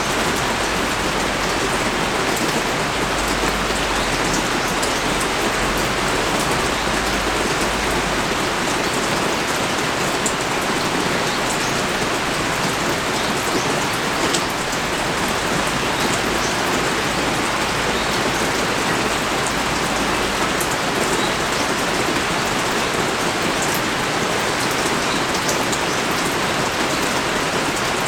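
Pouring rain: a steady, dense hiss of rain on surfaces, scattered with sharp ticks of single drops.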